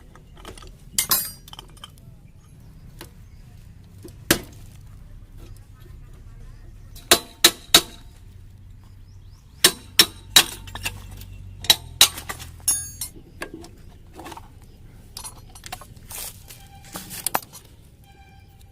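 Irregular sharp metallic clinks and taps, a dozen or so, some ringing briefly: hand tools and metal parts being picked up, set down and knocked together while a moped is worked on.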